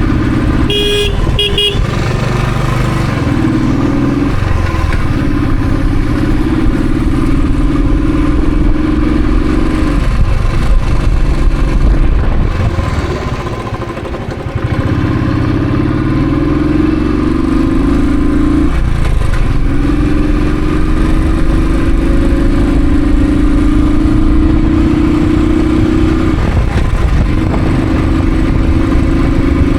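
Royal Enfield Thunderbird's single-cylinder engine pulling under way. Its pitch climbs steadily in each gear and drops back at each upshift, and about halfway it eases off for a couple of seconds before pulling again. A horn beeps twice about a second in.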